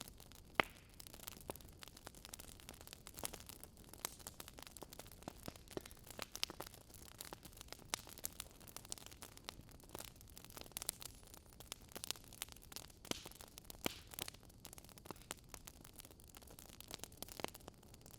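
Wood fire crackling: a faint steady hiss with many irregular sharp pops and snaps, the loudest about half a second in.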